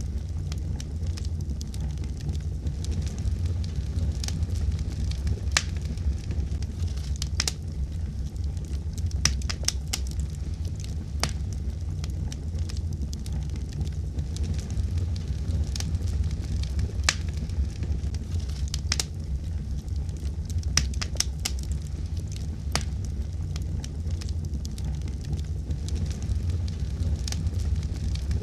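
Wood fire burning in a fireplace: a steady low rumble of flames with irregular sharp crackles and pops scattered throughout, sometimes several close together.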